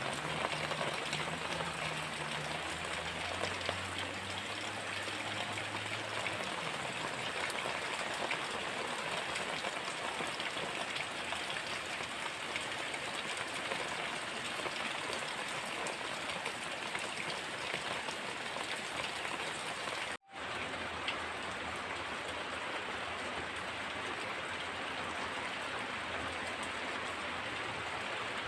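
Heavy rain falling steadily, a dense even hiss of drops on surfaces. A faint low hum sits under it for the first several seconds, and the sound cuts out for a split second about two-thirds of the way through.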